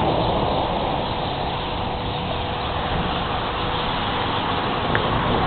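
Dense, continuous chirping of a huge flock of small sparrow-like birds packed into one tree, merging into a steady wash of sound, with a faint steady hum underneath.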